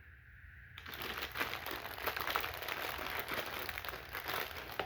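Packaging crinkling and rustling as a toy train car is handled and taken out of its box, starting about a second in.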